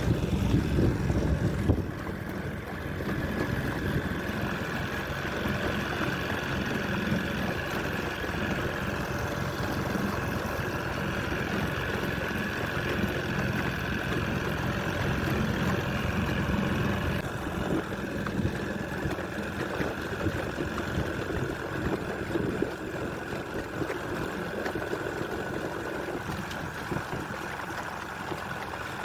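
Small boat's outboard motor running steadily under way.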